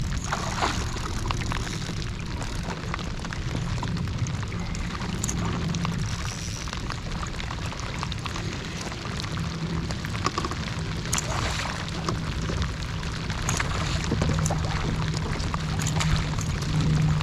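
Rain falling on the kayak and water, with a steady low rumble of wind on the microphone and many scattered sharp ticks.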